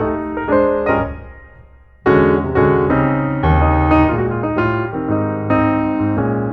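Background piano music: single struck notes and chords. About a second in the notes die away almost to silence, then the piece starts up again loudly just after two seconds.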